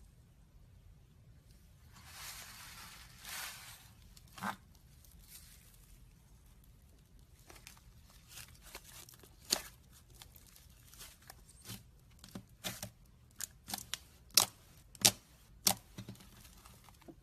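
Slime being handled: a soft rustling stretch about two seconds in, then a run of sharp pops and clicks that grow louder and closer together toward the end.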